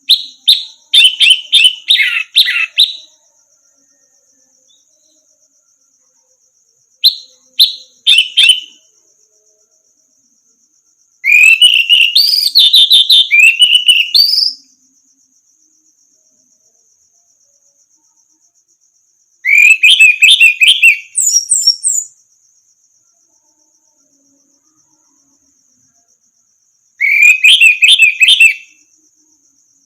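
Orange-headed thrush singing: five bursts of rapid, varied whistled phrases with pauses of a few seconds between them, over a steady high-pitched cricket trill.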